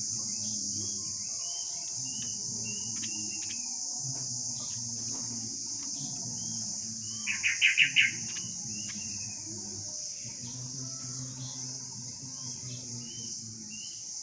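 Bar-winged prinia (ciblek) calling: soft short chirps throughout, with a loud rapid run of about four sharp notes about seven seconds in. Under it there is a steady high hiss like insect drone and a low steady hum.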